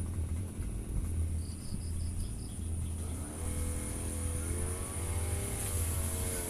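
Firman FGB 528 grass-cutter engine running low, then throttled up about halfway through, its pitch rising and wavering. Insects keep up a steady high drone, with a short run of quick high chirps early on.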